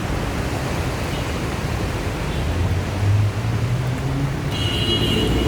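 Car driving through floodwater, heard from inside: a steady rushing noise of water and tyres over a low engine hum that swells about halfway through. Near the end, a steady high tone joins in.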